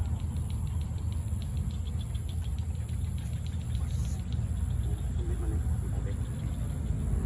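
Steady low rumble of road traffic, with a faint fast ticking through the first half.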